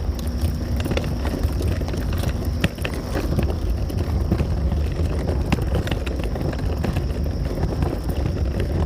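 Footsteps while walking uphill, irregular light steps over a steady low rumble of wind and handling noise on the microphone.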